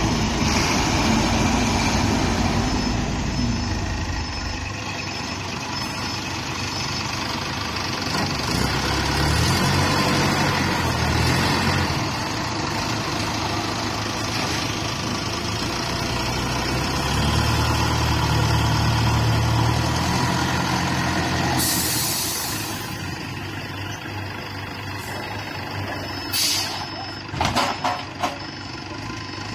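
Heavy Howo diesel truck engine running and revving up twice as the truck is driven onto a trailer, with a loud air-brake hiss about three quarters of the way through and a few sharp knocks near the end. A faint reversing beep repeats at the start and near the end.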